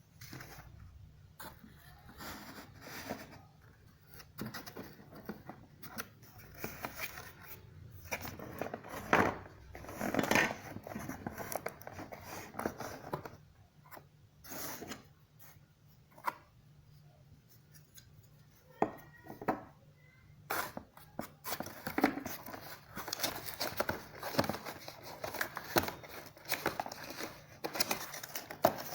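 Packaging being handled during an unboxing: irregular rustling and scraping with sharp clicks, as cardboard and plastic are opened and moved about.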